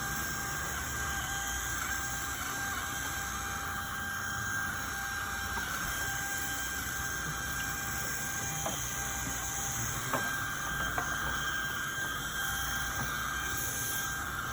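Carpet-cleaning machine running steadily, a continuous whining hum with a few light clicks partway through.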